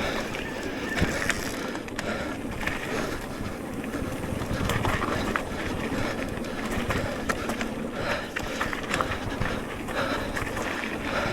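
Mountain bike rolling over a rough dirt trail: steady tyre noise with frequent rattles and clatters from the bike over bumps.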